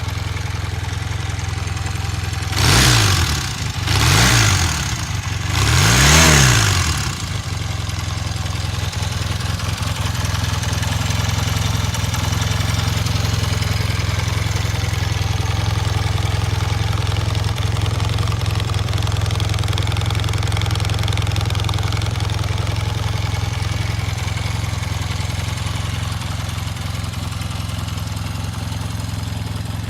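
Honda CB400T Hawk II parallel-twin motorcycle engine idling, blipped three times in quick succession about three, four and six seconds in, each rev rising and falling back, then settling into a steady idle.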